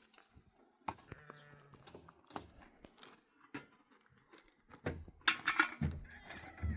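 Sheep and goats of a herd bleating, with one pitched bleat about a second in, amid scattered knocks and clicks and a louder rustling, scuffling stretch about five seconds in.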